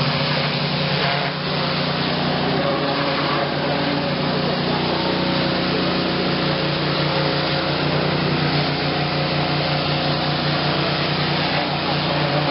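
Engine-driven pressure washer, rated 4,500 psi at 6 gallons a minute, running steadily with an even hiss of high-pressure water spray.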